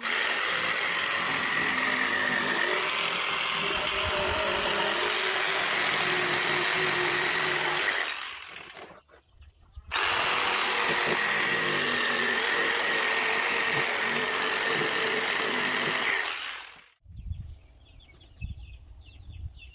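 An electric power tool running at full speed in two long runs, of about eight and six seconds, with a short stop between. It makes a steady whine over a loud hiss, the work of sharpening or drilling with a bit.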